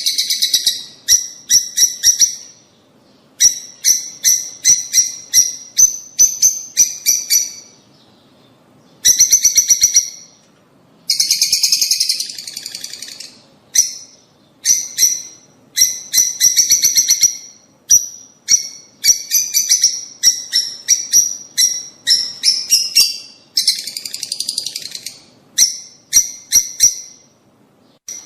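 Lovebirds calling: quick runs of sharp, high-pitched chirps that come in bursts of a second or two, with short pauses between them.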